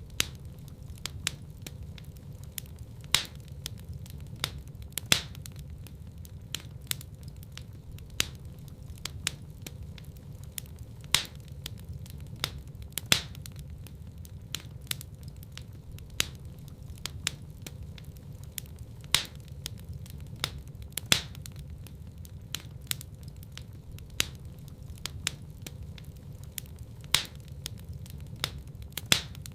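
Fire crackling in a fireplace: irregular sharp pops and snaps, a few much louder than the rest, over a low steady rumble of the burn.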